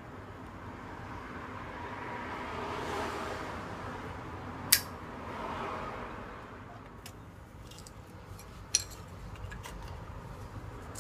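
Metal camp gear being handled: two sharp clinks about four seconds apart and a few lighter clicks, over a soft rushing noise that swells and fades twice.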